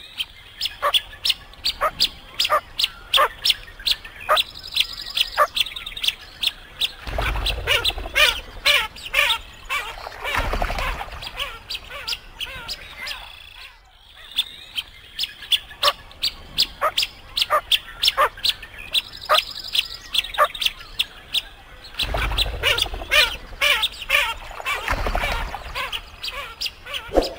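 Bird calls: a dense run of quick chirps and squawks, many short sharp notes in a row. The same stretch of about fourteen seconds plays twice, as a looped soundtrack.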